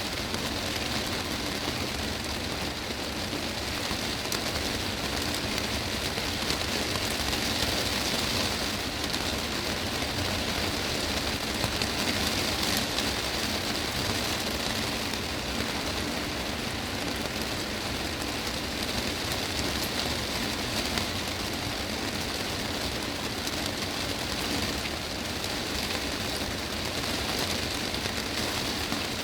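Heavy rain drumming steadily on a glass greenhouse roof, a dense patter of drops on the panes.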